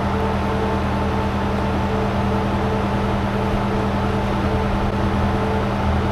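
A motor or engine running steadily at one constant speed, with an even hum.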